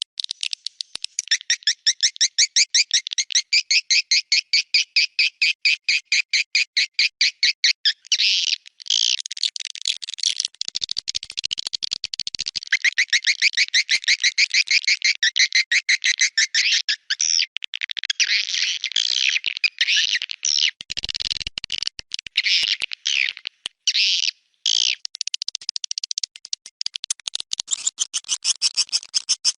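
Recorded swiftlet calls played as a lure sound for swiftlet houses: a fast, even run of high chirps, about five a second. After about eight seconds this gives way to looser, more varied twittering with short breaks.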